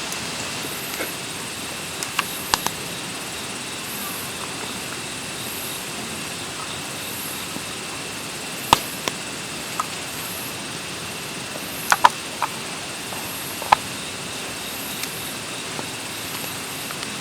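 Steady rush of a mountain stream, with a high chirping repeating about once a second, likely insects of a summer night. A few sharp clicks stand out, loudest about nine and twelve seconds in.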